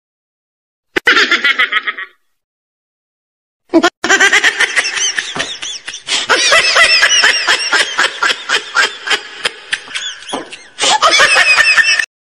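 Shrill, giggling laughter in rapid pulses: a short burst about a second in, then a long run from about four seconds until just before the end. It starts and stops abruptly, with dead silence in between.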